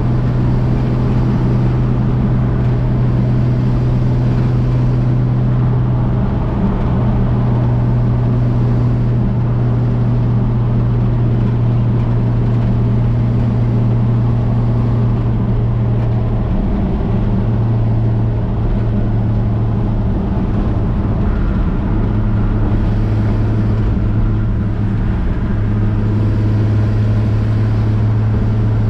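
1965 Chevrolet C10 pickup's inline-six engine droning steadily at cruise from inside the cab, over road noise. Its pitch shifts slightly a few times as road speed changes.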